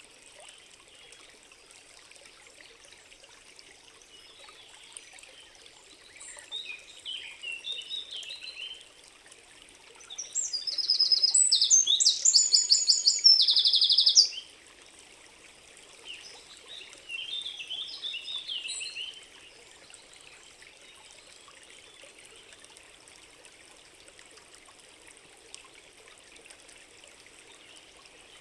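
Forest birds singing over a faint steady hiss of ambience. Short chirping phrases come about six seconds in and again near the twenty-second mark, and the loudest is a rapid, high, trilled song lasting about four seconds from around ten seconds in.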